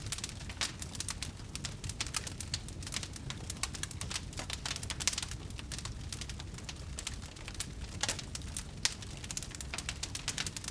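Wood fire crackling in a fireplace: dense, irregular pops and snaps over a low steady rumble, with a few sharper pops now and then.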